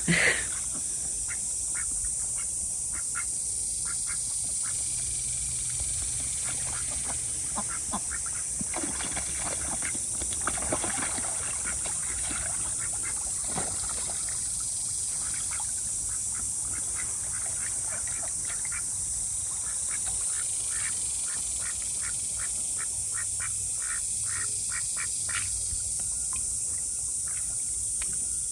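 Domestic ducks quacking in short, rapid runs of calls, thickest near the end, during a drake's dominance chase and mating.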